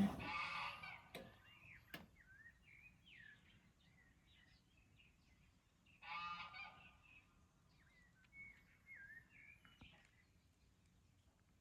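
A steady machine hum cuts off at the start, followed by two sharp clicks. Then it is nearly quiet, with faint chirping bird calls throughout and a louder honking call about six seconds in.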